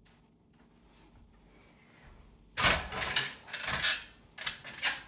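Plastic casing of an AUX air conditioner being worked loose by hand: a loud run of rattling, scraping knocks starts about halfway through and comes in several bursts.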